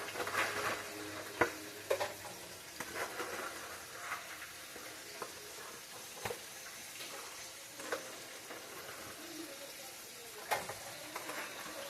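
Chicken drumettes frying in hot oil: a steady sizzle with scattered sharp clicks and pops.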